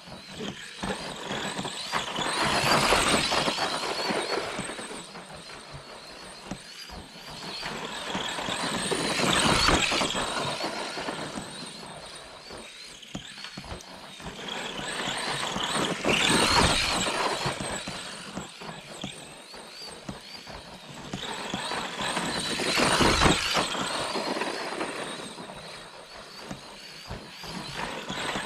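Brushed electric motor and drivetrain of an ARRMA Granite 4X2 Boost RC monster truck whining as it drives, with the sound swelling and fading about four times, roughly every six or seven seconds.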